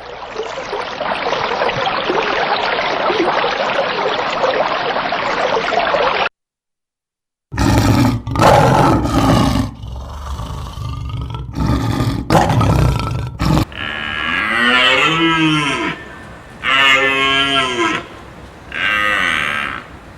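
Cows mooing: several long, drawn-out calls that bend in pitch in the second half, after loud harsh bellowing calls. The first six seconds are an even hiss, ending in a sudden cut.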